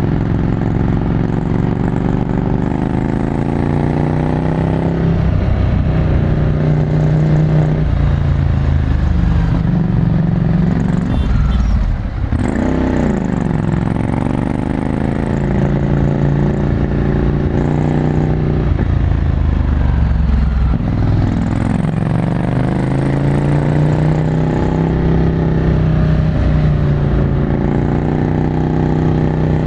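Ducati Scrambler Desert Sled's air-cooled 803 cc L-twin engine through a full Termignoni exhaust, ridden along with its note rising and falling as the throttle opens and closes. About twelve seconds in the sound briefly drops, then the pitch dips and climbs quickly.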